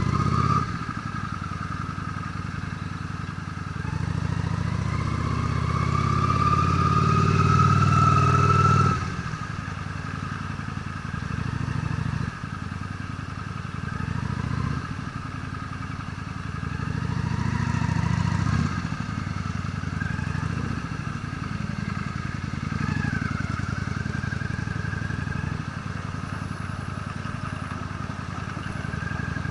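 Honda Steed V-twin motorcycle engine running under way. Its pitch rises from about four seconds in and drops off sharply near nine seconds as the throttle closes, then rises and falls again a little before halfway.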